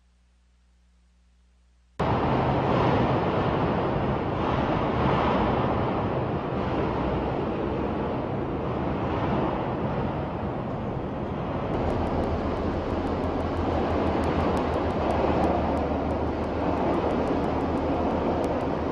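Loud, steady rushing of wind and sea that starts suddenly about two seconds in. From about halfway, a fast run of ticks and a low steady hum join it.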